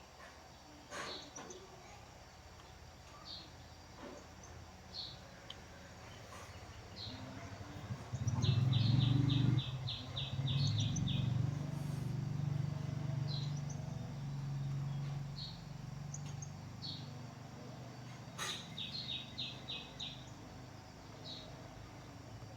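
A small bird chirping repeatedly, with two quick trills of rapid notes. A low droning hum swells up about eight seconds in, is loudest for a couple of seconds, then fades away over several seconds.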